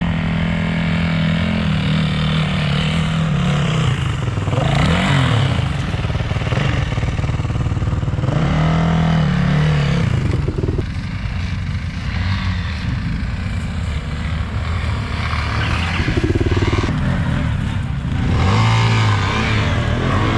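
Off-road vehicle engine running under way, its revs rising and falling several times as the throttle is worked.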